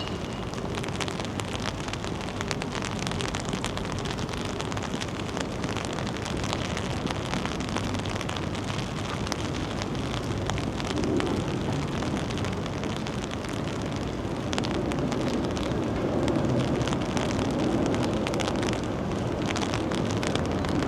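Rain pattering in many fine ticks, with gusts of wind buffeting the microphone in low swells that grow stronger in the second half.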